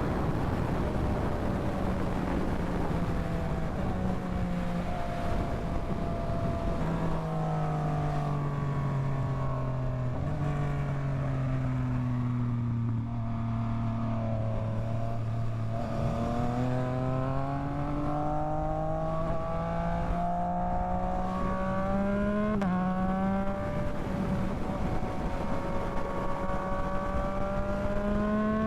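Yamaha MT-09 inline-three engine running while riding, over a rush of wind noise. Its pitch climbs and falls with the throttle and drops in a step several times, as at gear changes.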